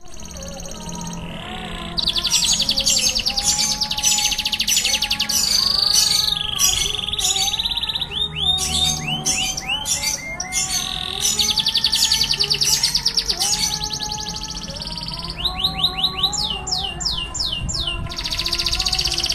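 Domestic canary singing a long, vigorous song of fast rolling trills broken by series of quick sweeping notes.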